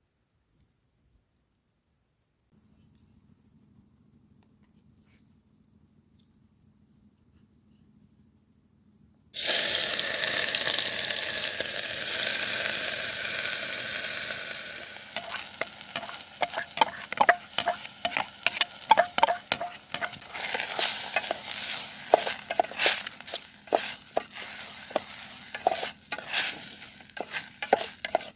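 A cricket chirping in a fast, even pulse. About nine seconds in, food goes into hot oil with a sudden loud sizzle, which after a few seconds turns to irregular crackling and popping as it fries.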